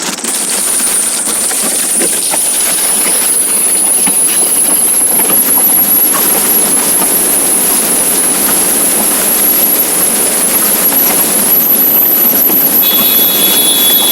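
Steady loud rush of wind and road noise from a motorcycle at riding speed, with a thin high whine throughout. A brief steady high tone sounds for about two seconds near the end.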